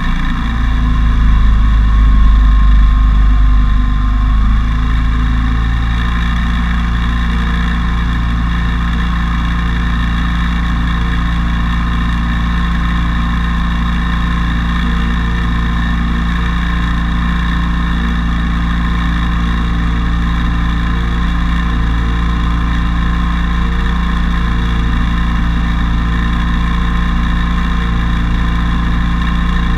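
Motorcycle engine running at a steady engine speed, with a low rumble that is louder for the first four seconds or so and then settles to an even hum.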